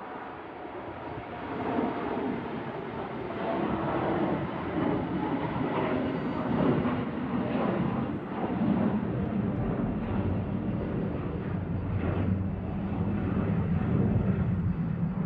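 CRJ-700ER regional jet's two CF34 turbofan engines at takeoff thrust, a jet rumble that rises over the first two seconds and then stays loud, with the deep low end growing stronger in the second half.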